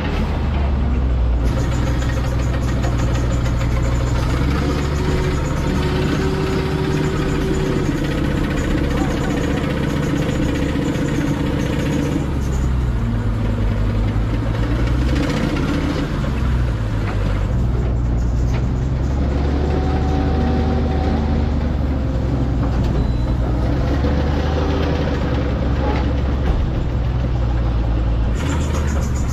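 Heavy vehicle engine running steadily. Its pitch sags and climbs back about halfway through.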